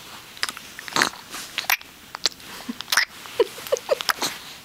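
A 15-week-old baby making clicking noises with her mouth: an irregular string of sharp tongue-and-lip clicks.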